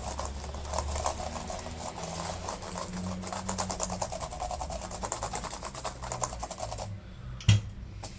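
Laptop keyboard keys pressed rapidly over and over, a fast clatter of key clicks, to work contact cleaner in under keys that stick. The clatter stops about seven seconds in, followed by one louder click.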